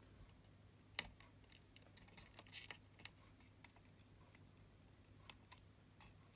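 Near silence with a few faint, scattered clicks, the sharpest about a second in and a small cluster a second or so later.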